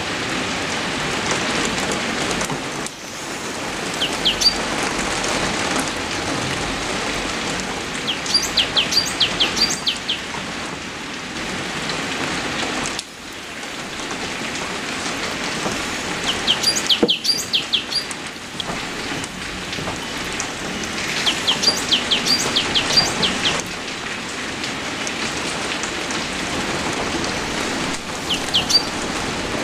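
Steady rain falling, with a songbird calling in short bursts of quick, high chirps every few seconds.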